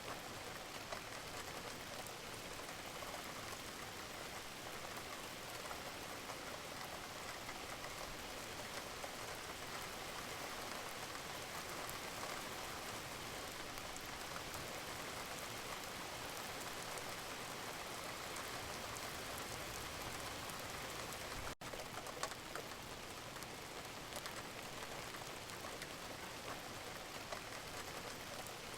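Steady rain, an even hiss of water with many small drop ticks, broken once by a split-second gap about two-thirds of the way through.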